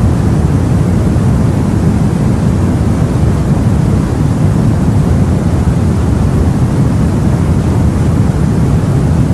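Steady low rumble of sea ambience aboard a boat, an even noise with no separate waves or other events standing out.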